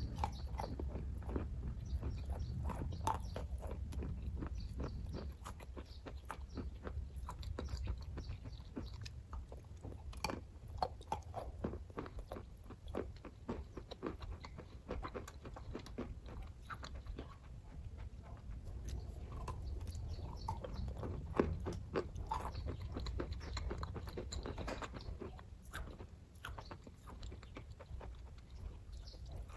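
Close-miked chewing and biting of kaju katli, a dense cashew fudge: soft wet smacks and clicks of the mouth working through the sweet, over a low steady hum.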